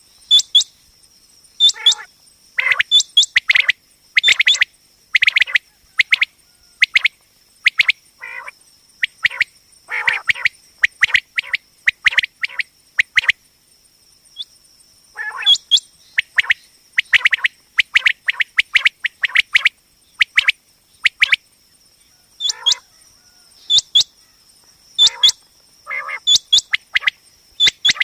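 Common quail calling over and over: quick bursts of two or three sharp notes, with softer, lower calls in between and a short pause about halfway through.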